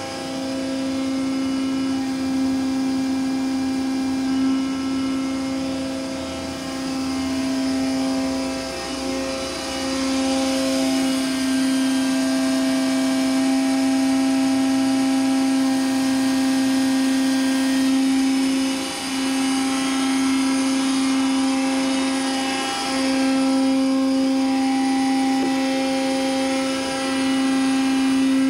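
Hydraulic power unit of an Eaton Leonard VB300 CNC tube bending machine running with a steady pitched whine. The whine dips briefly three times, about a third of the way in, and twice more in the second half.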